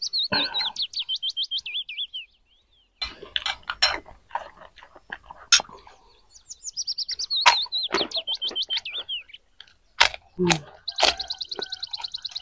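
A songbird singing: a quick run of notes falling in pitch, twice, then a fast even trill near the end. Sharp clicks of spoons on plates between the phrases.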